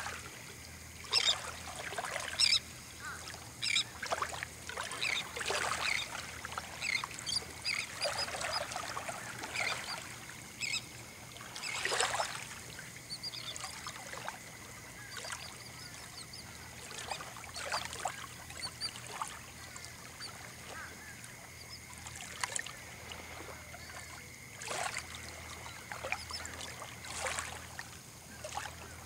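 Birds calling: short, harsh, honking calls repeating irregularly, thickest in the first half, over a faint steady high tone.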